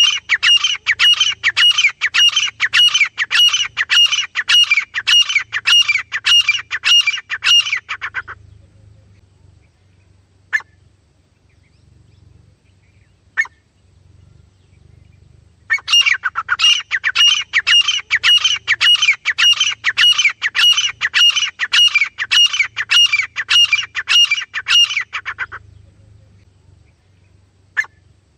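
Francolin (teetar) calling: a fast run of sharp, repeated notes, about three a second, lasting some eight seconds. After a pause broken by a couple of single notes, a second run of similar length starts about sixteen seconds in.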